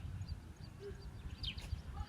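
Birds chirping in short high calls, with a quick run of falling chirps about one and a half seconds in, over a low rumble of wind on the microphone.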